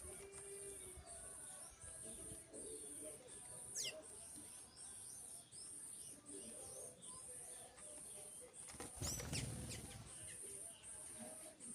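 Small birds chirping and calling while feeding, with a louder flurry of calls and wing flutter about nine seconds in. A steady high-pitched pulsing, about two pulses a second, runs underneath.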